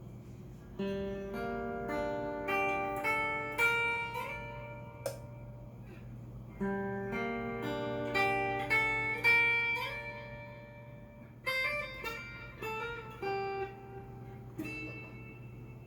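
Cort S-series electric guitar played through a Fender amp: a melodic phrase of single picked notes, played twice, then a quicker run of notes near the end, over a steady low hum.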